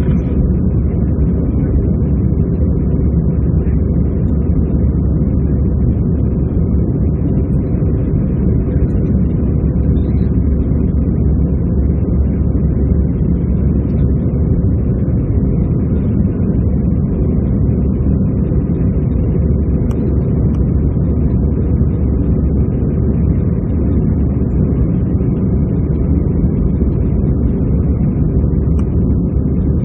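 Steady low roar inside the cabin of an Airbus A320-214, from its CFM56 engines and the airflow, holding even throughout.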